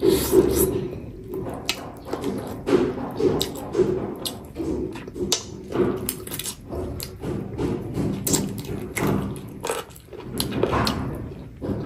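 Close-miked eating of chicken on the bone by hand: chewing, wet lip smacks and sucking at the meat, with many short mouth clicks in an uneven rhythm.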